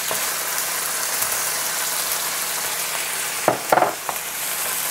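Chicken and raw shrimp sizzling in hot oil in a wok, a steady hiss. About three and a half seconds in, a wooden spatula knocks and scrapes against the pan a few times as the food is stirred.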